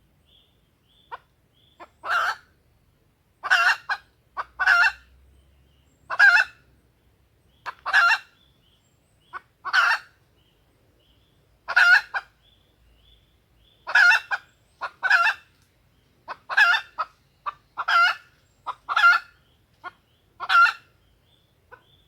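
Female junglefowl calling, a lure call used to draw wild junglefowl: short, sharp calls repeated about every one to two seconds, some in quick pairs.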